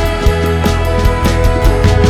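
Orchestral ensemble playing an instrumental passage, with sustained chords over a strong bass and a steady percussion beat.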